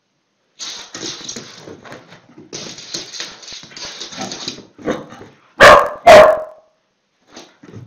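A small dog reacts to a half lemon held out to it. It makes several seconds of rough, excited growling and huffing, then gives two loud barks about half a second apart.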